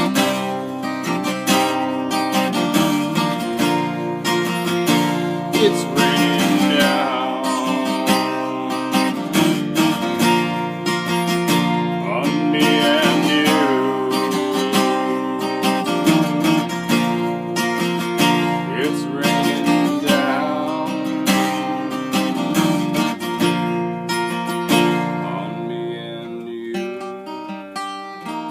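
Acoustic guitar strummed in a steady rhythm, an instrumental passage of the song; the strumming softens near the end.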